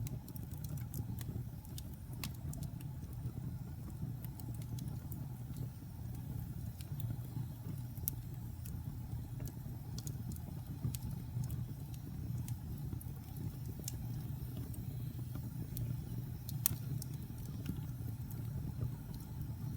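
Wood fire crackling: sharp pops and snaps come irregularly over a steady low rumble, with one louder pop late on.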